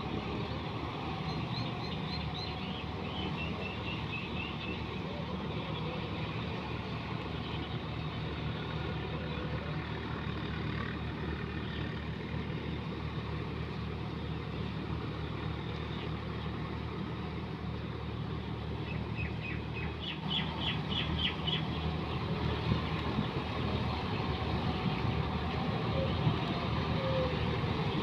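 John Deere 5210 tractor's diesel engine running steadily, getting a little louder about two-thirds of the way through.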